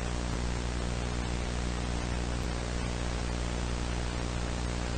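Steady static hiss with a low hum underneath, unchanging throughout.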